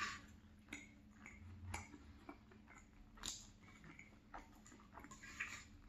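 Faint chewing of a mouthful of creamy salmon pie, with a few soft, sharp clicks scattered through.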